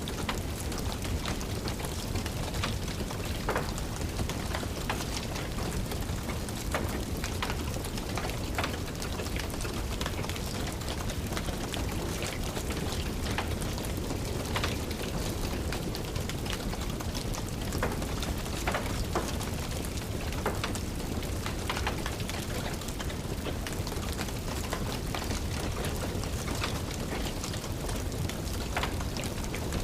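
Steady rain with the scattered pops and crackles of a fireplace fire.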